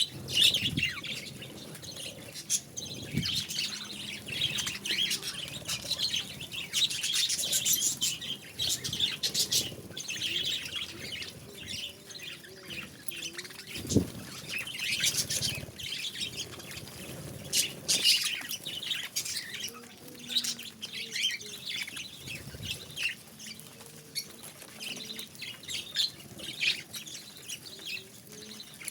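Budgerigars chirping and chattering continually, a dense stream of short, high chirps. A few sharp knocks come through, the loudest about halfway through.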